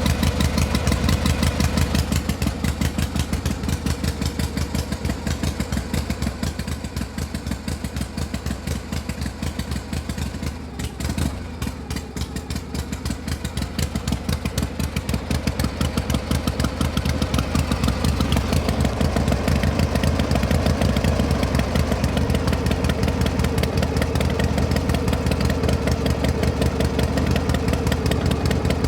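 A small engine running steadily with a fast, even chug, easing off a little about eleven seconds in and picking back up later.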